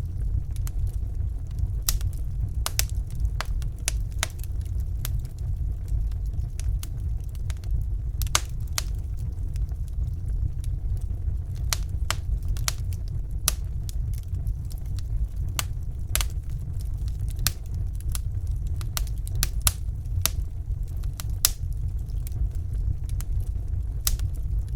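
Wood fire in a fireplace burning, with irregular sharp crackles and pops over a steady low rumble of the flames.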